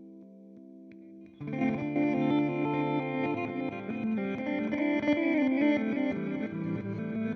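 Electric guitar through a Nux Time Core delay pedal: a held chord decays with its repeats, then about a second and a half in a new passage of strummed, lightly overdriven playing starts and continues with delay repeats.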